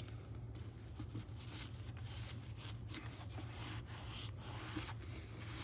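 Faint, irregular rubbing and scrubbing strokes as the inside of an EZGO gas engine's crankcase is wiped clean after being sprayed with carburetor cleaner, over a steady low hum.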